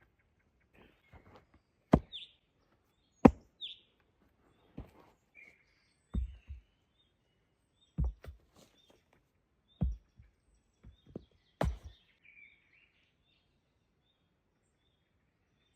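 A series of sharp knocks, a tool striking wood, about seven strikes one and a half to two seconds apart, each followed by smaller knocks. Small birds chirp between the strikes.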